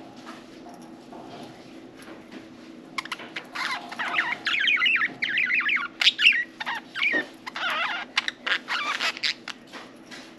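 Budgerigars chattering, a dense run of fast, wavering warbles and chirps that starts about three seconds in and dies down near the end, over a faint steady low hum.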